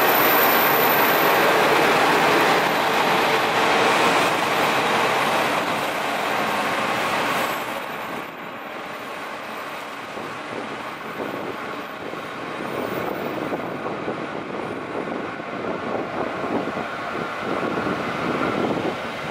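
Umisachi Yamasachi diesel railcar pulling out and running past the platform, with loud wheel and engine noise. About eight seconds in it drops away to a fainter rumble as the train draws off down the line.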